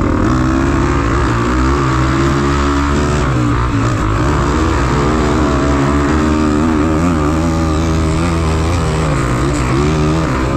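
Off-road motorcycle engines running and being revved, their pitch rising and falling unevenly as the riders work the throttle.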